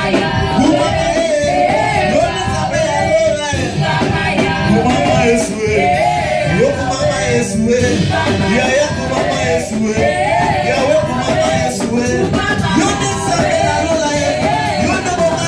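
Live Lingala gospel music from a church choir and band, with a wavering melodic line over steady, dense accompaniment.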